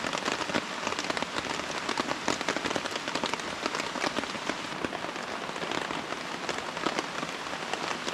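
Steady rain falling, an even hiss dotted with many sharp individual drop hits.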